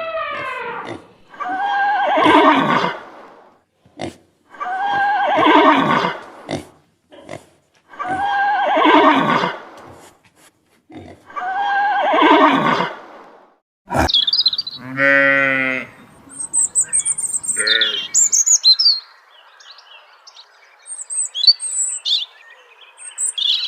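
Animal calls: four loud, drawn-out calls about two seconds each, evenly spaced, then after a sharp click a different short call, followed by scattered high bird chirps over a faint hiss.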